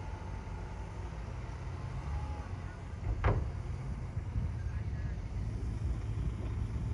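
Heavy diesel earthmoving machinery running steadily with a low rumble, and a single sharp knock about three seconds in.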